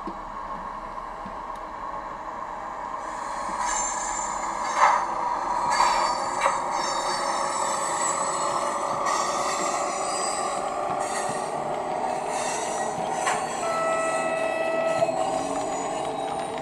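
ACME E626 model electric locomotive with a Portigliatti DCC sound decoder running, playing electric-locomotive running sounds over the model's motor hum. The sound swells from a few seconds in, with scattered clicks and high squeals, and one held tone lasts about a second near the end.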